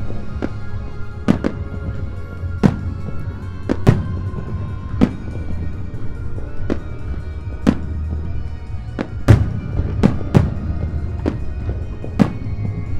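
Aerial fireworks shells bursting, more than a dozen sharp bangs at irregular intervals, with music playing throughout.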